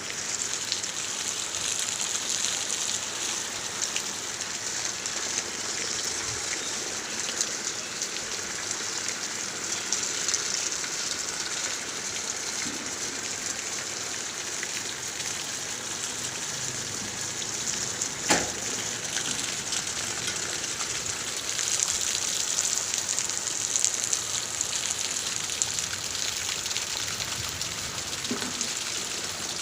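Heavy monsoon rain falling steadily, with many close drops ticking on surfaces. One sharp knock about two-thirds of the way through.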